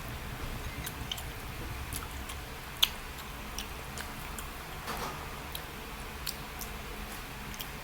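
Eating sounds: chewing and scattered small clicks, with one sharper click about three seconds in, over a steady low hum.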